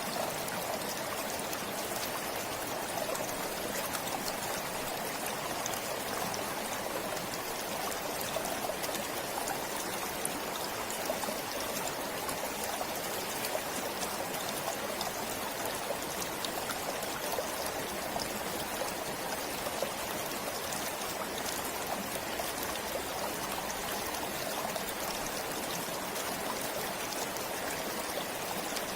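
Stream flowing steadily: an even rush of running water with fine trickling ticks, unchanging throughout.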